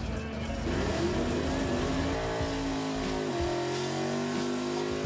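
Drag race cars' engines revving at the starting line. The pitch climbs about a second in, then holds high and steady with a few brief dips.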